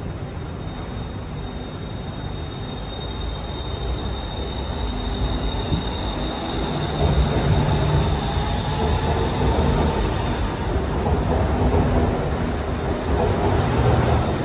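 BTS Skytrain electric trains running through an elevated station, a low rumble that grows louder about halfway through, with a steady high whine over it.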